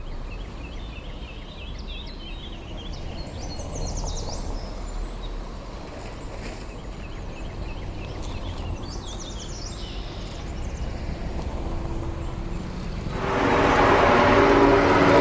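Steady low outdoor rumble with birds chirping; about 13 seconds in, a loud engine comes in suddenly and keeps running with a steady pitched drone.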